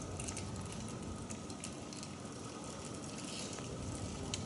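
Car-wash soap foam in a bucket fizzing faintly and steadily, with scattered small clicks as the suds pop.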